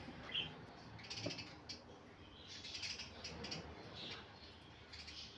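Budgerigars chirping and chattering in many short, high calls.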